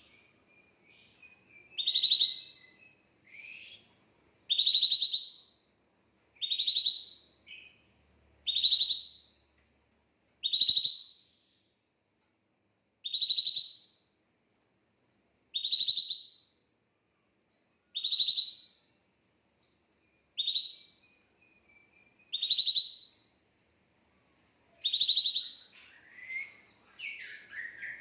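A songbird repeating a short, rapidly trilled call about every two seconds, each call rising to a high, shrill peak. Brief thin whistled notes fall between the calls, and a more tangled run of notes comes near the end.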